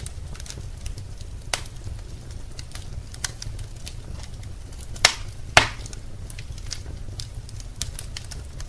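Wood fire burning in a fireplace, crackling with scattered sharp pops over a low steady rumble; two louder pops come about five seconds in, half a second apart.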